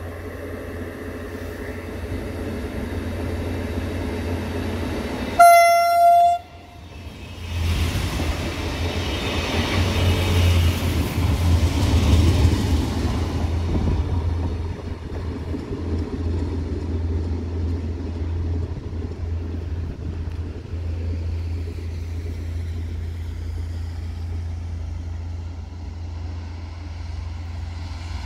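ODEG regional train sounds one single-tone horn blast of under a second as it approaches. It then runs in close by with a swelling rumble that peaks and eases back into a steady low engine hum.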